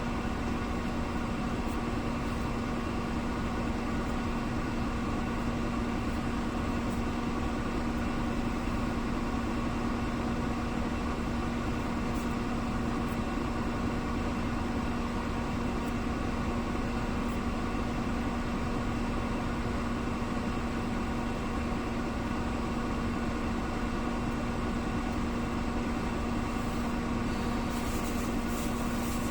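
Steady machine hum at one constant pitch, unchanging throughout.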